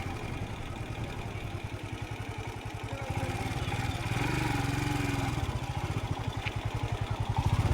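Royal Enfield Scram 440's single-cylinder engine running at low revs, its slow, even firing pulses plainly heard, getting a little louder near the end.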